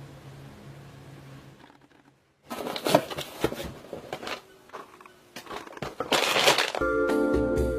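Irregular rustling, crinkling and knocking, as of something being handled or crushed, after a short silence; keyboard music starts near the end.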